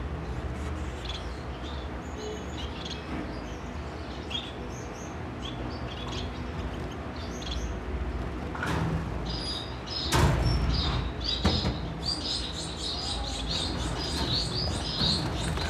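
Baby goldfinches chirping: short, high chirps, sparse at first, then a quick, steady run of chirps in the last few seconds. A few knocks or rustles come midway.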